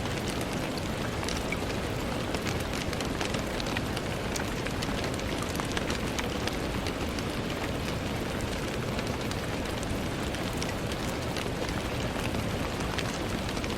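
Steady rain pattering on a window pane: a constant hiss of rainfall with many small, sharp drop ticks scattered through it.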